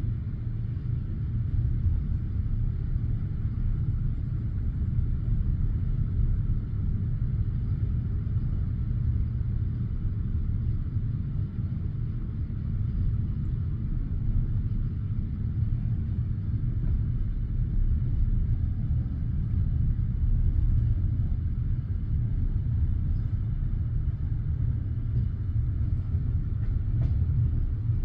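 A passenger train carriage rolling along the track, heard from inside the carriage as a steady low rumble of wheels on rails.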